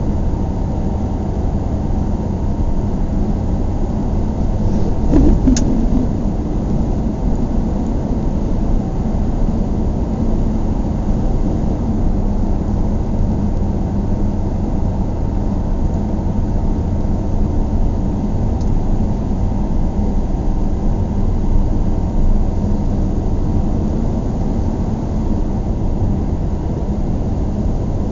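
Steady low rumble of a moving vehicle, with one short click about five and a half seconds in.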